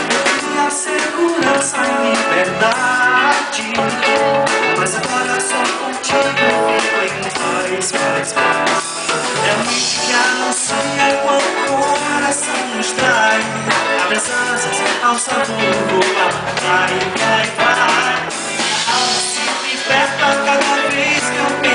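A band playing a guitar-led pop-rock song with drums, with some singing over it.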